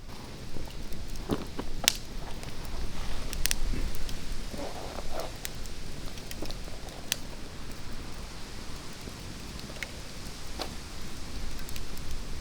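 Wood campfire crackling, with scattered sharp pops over a steady low hiss, and a short stretch of rustling about halfway through.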